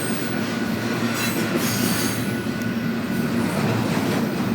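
A train passing close by on the track, its cars rolling over the rails in a steady, continuous noise.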